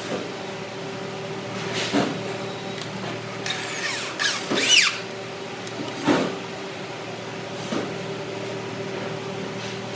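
Workshop machinery humming steadily, with a knock or clank every second or two and a short rising squeal about halfway through.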